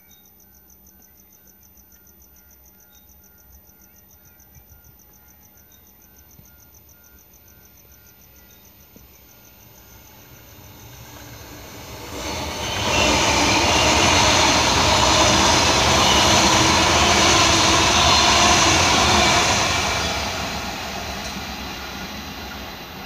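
Queensland Rail NGR electric multiple unit passing through a station at speed without stopping. Its rushing wheel-and-rail noise builds from faint to loud about twelve seconds in, stays loud for about seven seconds, then fades as it moves away.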